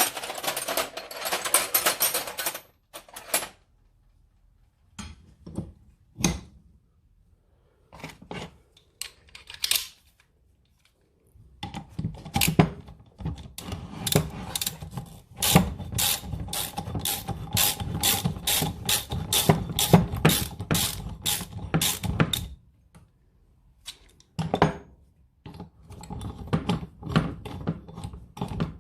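Socket ratchet clicking in repeated strokes as the main engine-mount bolt is undone, with a spanner holding the nut. The clicking comes in bursts, with short pauses and metal tool clinks; the longest run lasts about ten seconds at roughly two clicks a second.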